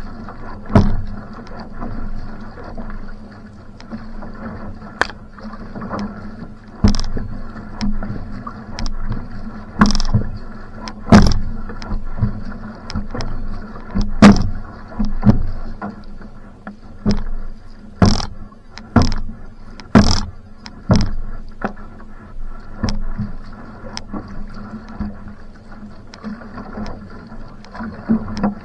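Va'a outrigger canoe being paddled hard: water rushing along the hull, with sharp splashes and knocks from the paddle strokes roughly once a second over a steady low hum.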